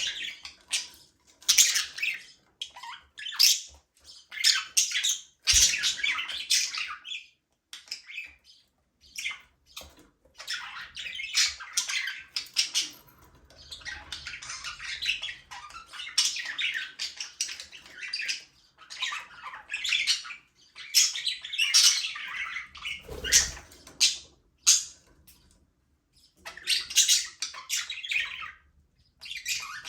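A flock of budgerigars chirping, chattering and squawking, in dense irregular bursts with short pauses between them. A brief low thump comes about two thirds of the way in.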